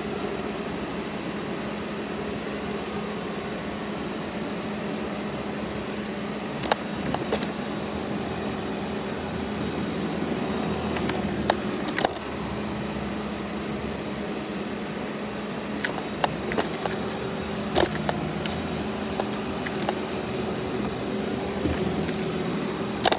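Robot vacuum running with a steady motor hum and brush whir, heard from on top of the machine. A few sharp clicks and knocks break in now and then.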